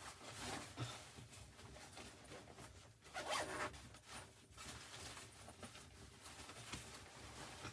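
A zipper pulled in several short strokes, the loudest about three seconds in.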